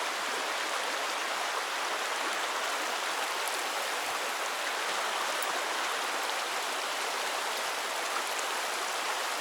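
Mountain creek water flowing over rocks: a steady, even rush with no change.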